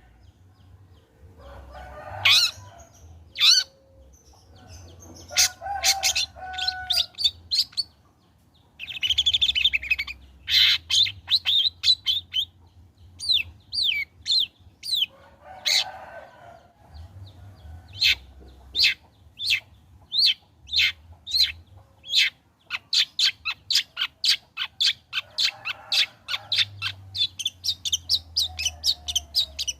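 Long-tailed shrike singing: sharp, short calls and harsher chattering notes in irregular bursts, running into a fast string of repeated short notes over the last third.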